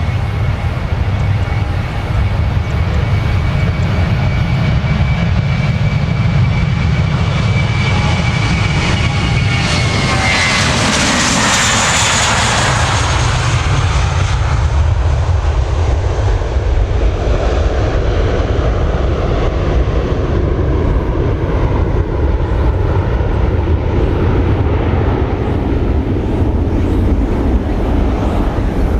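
Airbus A321-200 jet airliner's engines passing close by: a high whine that drops in pitch as the aircraft goes past about ten to twelve seconds in, the loudest moment, followed by a steady deep rumble.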